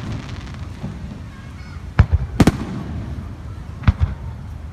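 Fireworks shells bursting overhead: sharp bangs at irregular intervals, a pair about two seconds in, the second of them the loudest, and another pair near the end, over a low rumble.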